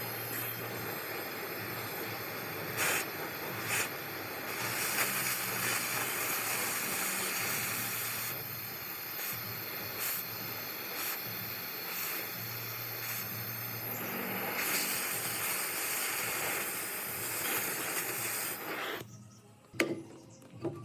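Steady hiss from a workshop tool, with a low hum that comes and goes and a few sharp clicks; it cuts off near the end.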